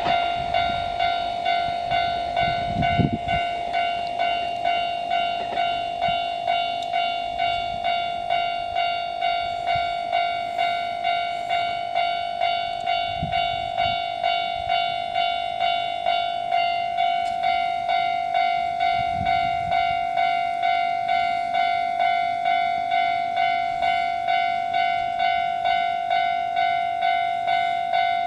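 Railway level-crossing warning bell ringing, an electronic ding repeating evenly a little more than once a second, with low train rumbles swelling briefly a few times.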